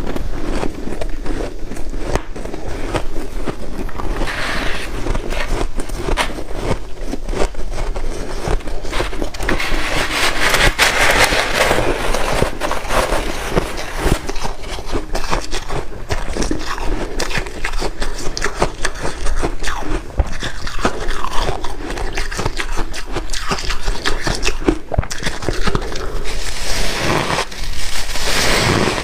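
A person chewing and crunching white ice close to the microphone: a dense, continuous crackling crunch.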